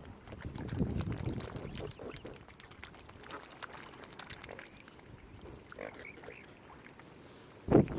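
Waterbirds calling here and there, short scattered calls. A sudden loud low rumble starts near the end.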